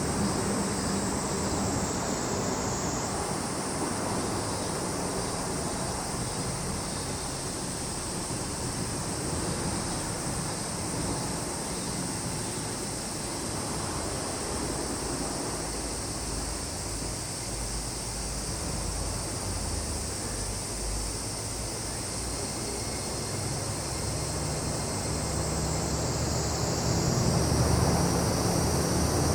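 Steady high-pitched chorus of summer insects such as cicadas and crickets. Under it is a low engine rumble that grows louder near the end, like a vehicle or aircraft passing.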